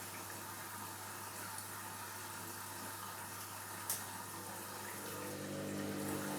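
Washing machine filling with water, a steady rushing hiss, with a single click about four seconds in. Near the end the drum motor starts, and a hum rises under the water.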